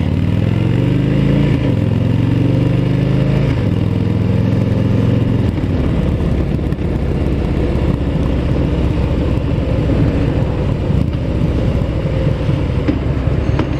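Motorcycle engine accelerating, its pitch rising and then stepping down through a gear change or two in the first few seconds, before settling into a rougher, uneven low running sound.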